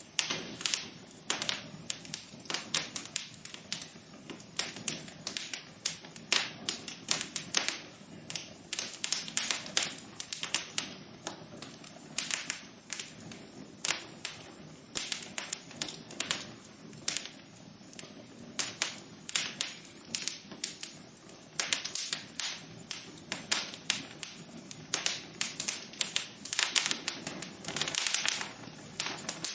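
Fire in a fireplace crackling: irregular sharp pops and snaps, several a second, over a faint steady noise.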